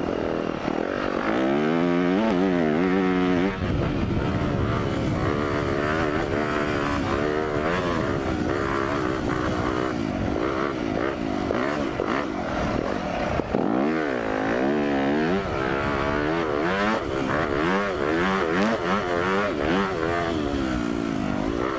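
Single-cylinder four-stroke motocross bike engine revving up and down again and again as it is ridden, the throttle closing briefly about three seconds in and again about halfway through.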